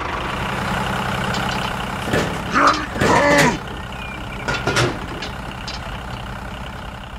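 A tractor engine running steadily, with a couple of loud, drawn-out calls that slide in pitch in the middle.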